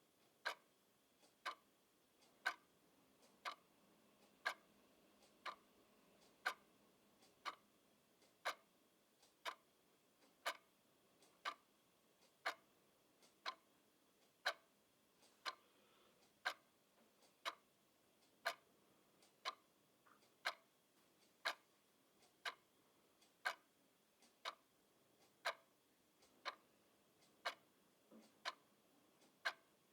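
Clock ticking steadily: a sharp tick about once a second, each preceded by a fainter tick.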